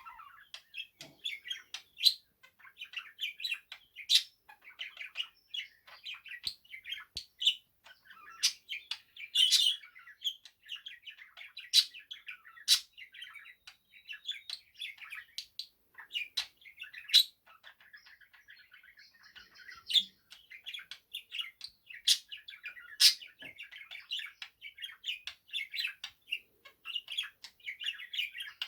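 Budgerigar singing: a continuous warbling chatter of rapid chirps and trills, broken by frequent sharp clicks and louder high chirps.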